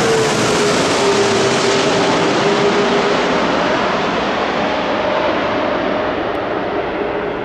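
Airbus A330-243F freighter's Rolls-Royce Trent 700 jet engines passing low overhead on a low approach: a loud rush of jet noise with tones that slide down in pitch as it goes by, then slowly fades.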